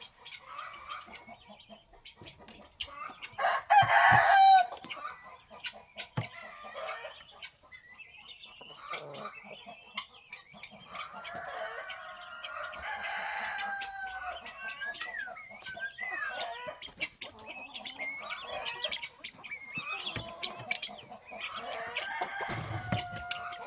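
A flock of chickens clucking and calling, with a rooster crowing. The loudest call comes about four seconds in, and more calls follow in the middle and near the end.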